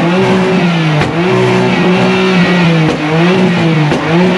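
A car engine being revved repeatedly, the pitch climbing, holding briefly and dropping back about once a second.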